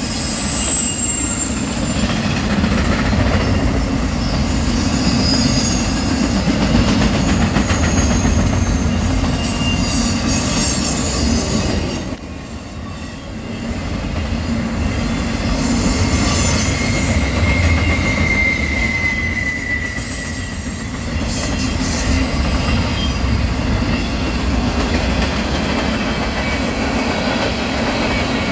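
Freight cars of a garbage train rolling past with a steady rumble, their wheels squealing in thin high tones that come and go.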